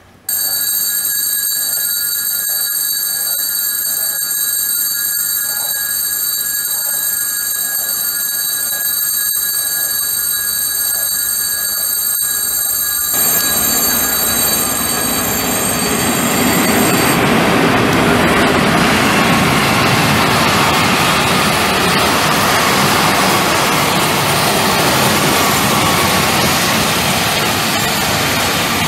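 A passenger train passing close: for the first half there is a high, steady whine of several tones, then the loud, even rumble and rattle of the wheels and carriages going by takes over about halfway through and grows louder.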